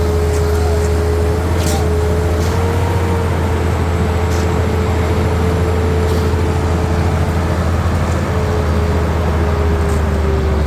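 Heavy diesel engine of a concrete truck running steadily, a deep rumble with a steady whine on top that drops slightly in pitch near the end. A few faint clicks.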